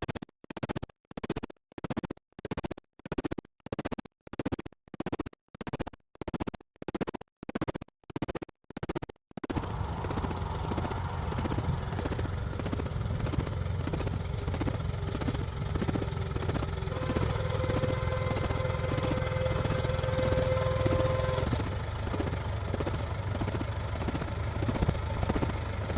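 Music with a beat and record scratching, cut off about nine seconds in by the old Ford tractor's engine running steadily, with a faint whine part way through.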